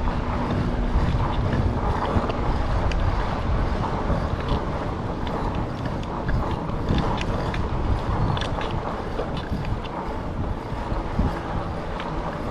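Wind buffeting the microphone of a chest-mounted action camera on a moving e-bike, a steady rumble with scattered small clicks and rattles.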